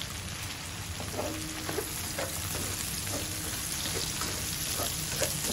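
Chopped onion and tomato sizzling in hot oil in a stainless-steel wok, with the scraping and tapping of a slotted spatula stirring them against the pan.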